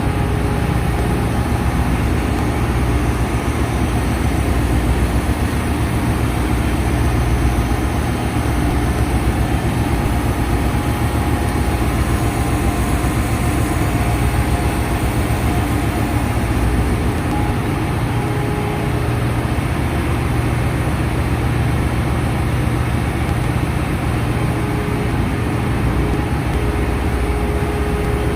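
Ship's engine-room machinery running: a loud, steady, deep drone that holds unchanged throughout.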